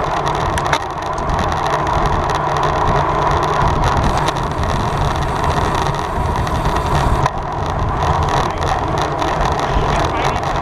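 Steady rush of wind and road noise from a road bicycle ridden at race speed, with a low rumble throughout.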